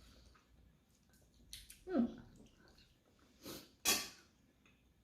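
A person's short voiced sound falling in pitch about two seconds in, followed by two quick breathy bursts, the second the loudest.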